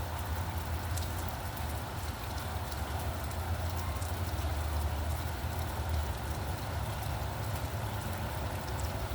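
Steady rain falling, with scattered raindrop ticks over a low, continuous rumble of road traffic.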